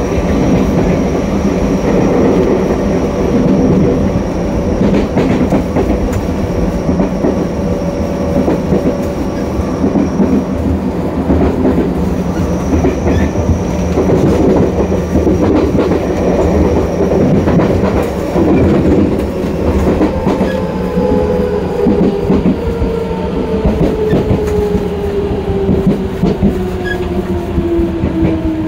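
Tokyo Metro 08000-series electric train running, heard from the gangway between cars: a steady wheel-and-track rumble with clicks over the rail joints. From about two-thirds of the way in, the motor whine falls steadily in pitch as the train slows.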